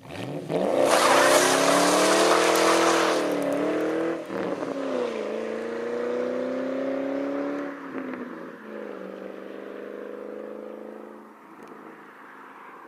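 Straight-piped 1999 Ford Mustang GT 4.6-litre V8 (mufflers deleted, cats kept) launching hard, with a burst of tire squeal over the first three seconds. It then pulls through the gears, the pitch dropping at each shift, about four and eight seconds in. The sound gets quieter toward the end as the car moves away.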